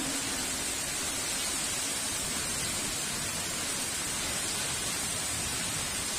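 Heavy rain falling steadily, an even hiss with no thunder and no change in level.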